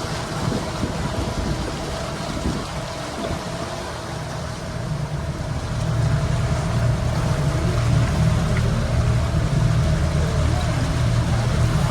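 Tour boat's engine running steadily under way: a low drone with a steady whine over it, getting louder about halfway through, with water noise.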